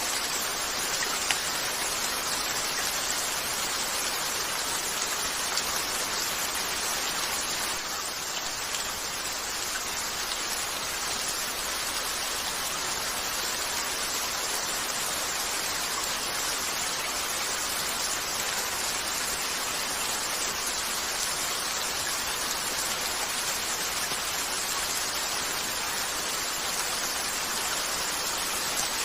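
Steady rain falling against a window, an even hiss with a few isolated sharp clicks.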